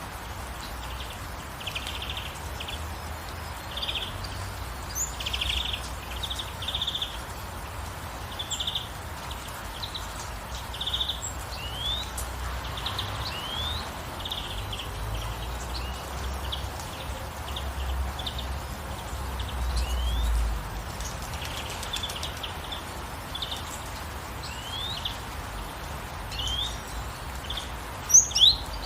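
Birds chirping over a steady hiss of gentle rain: short repeated chirps and quick rising whistles, with a louder call near the end.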